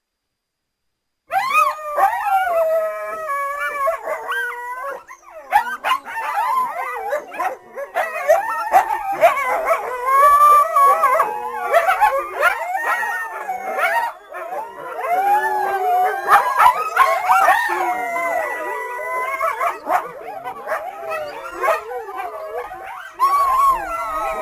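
A pack of coyotes howling and yipping together, many voices overlapping in wavering, up-and-down pitched calls. It starts about a second in.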